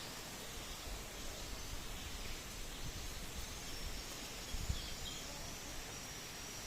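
Strong wind gusting outdoors, buffeting the microphone with a low rumble that swells through the middle and peaks in a sharp gust about two thirds of the way in. Faint high-pitched chirping runs underneath.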